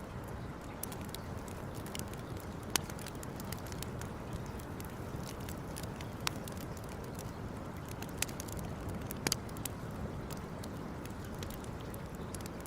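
Campfire crackling, with sharp irregular pops over a steady low rushing noise.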